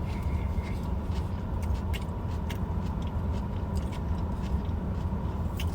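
A person chewing a mouthful of coleslaw, with scattered small clicks from the mouth, over a steady low rumble.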